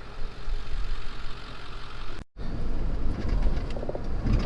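Road and engine noise inside a moving car's cabin: a steady low rumble with a hiss over it, broken by a brief dropout a little past halfway.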